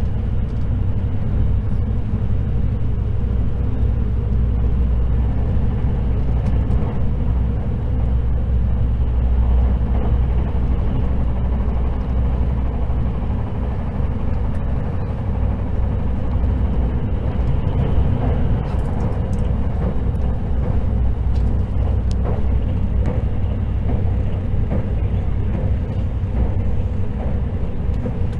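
Running noise heard inside the cabin of the Hakutaka limited express train at speed: a steady low rumble of wheels on rail, with a faint steady hum above it.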